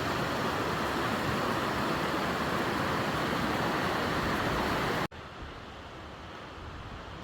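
Steady outdoor rushing noise, like wind or running water, that cuts off abruptly about five seconds in and gives way to a quieter, even hiss.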